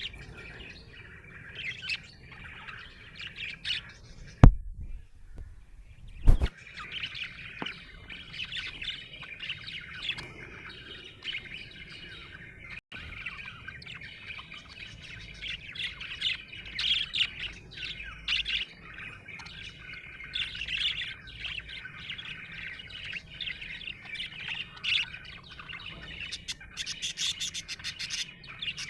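Budgerigar chirping continuously in quick, high twittering notes. Two sharp clicks stand out about four and a half and six seconds in, and a rapid run of ticks comes near the end.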